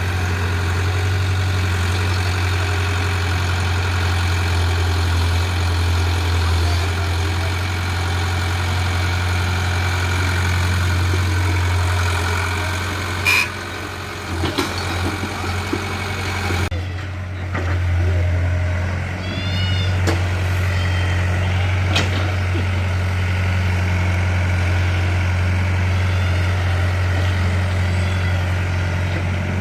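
Tractor diesel engine running steadily with a low drone. The sound changes abruptly a little past halfway, as if it cuts to another recording, and the engine keeps running.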